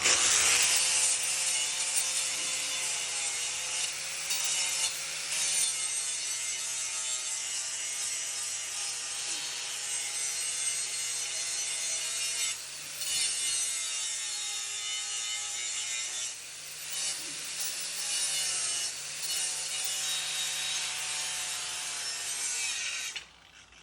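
Angle grinder grinding steel to clean slag off cut and welded pieces, its motor whine dipping in pitch as the disc is pressed into the work and recovering as it eases off. It shuts off suddenly near the end.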